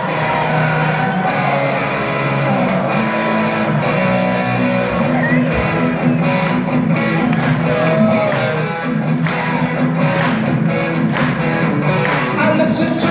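Live rock band playing an instrumental passage: electric guitar with bent notes over bass, with sharp drum and cymbal hits coming in a steady beat from about halfway.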